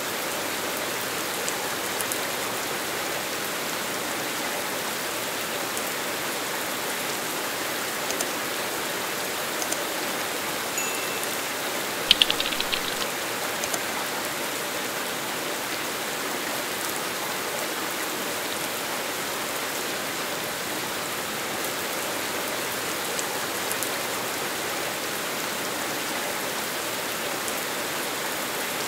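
Smooth, steady rain falling on paved roads and hard surfaces, an even hiss. About twelve seconds in, a brief cluster of sharp clicks stands out above the rain, the loudest moment.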